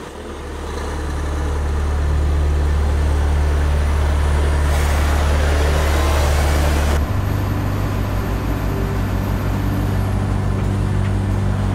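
Heavy truck running as it drives, with a swell of noise in the middle, under low held music notes that change pitch about seven seconds in.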